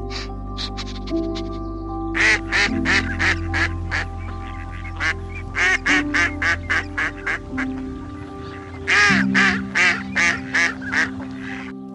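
Ducks quacking in quick runs of short calls, in three bouts separated by brief pauses, over steady background music.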